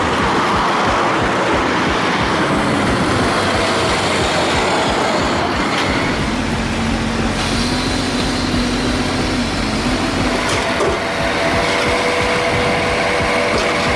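Heavy truck running under way: a steady, loud engine and road noise with a held engine tone in the middle.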